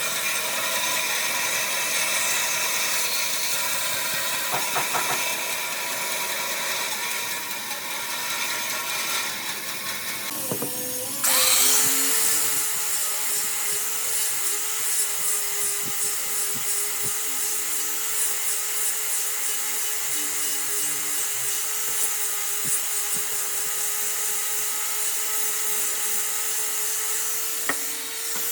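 Electric power tool running on wood with a steady motor tone. About eleven seconds in it stops briefly, then starts again louder with a new steady pitch that runs on.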